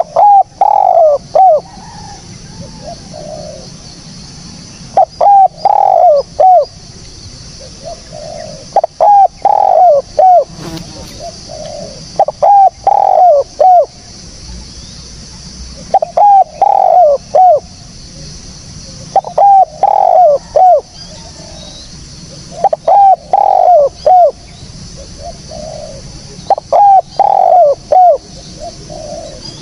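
Spotted dove cooing: its short phrase of three or four notes repeated about every four seconds, eight times, over a steady high hiss.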